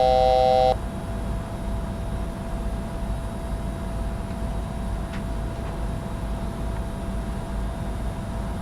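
Steady cockpit noise of a Bombardier Challenger 605 jet in flight on approach: airflow and engine rumble with a faint steady tone held throughout. It opens with the tail of a loud electronic cockpit chime, a chord of several steady tones that cuts off suddenly under a second in.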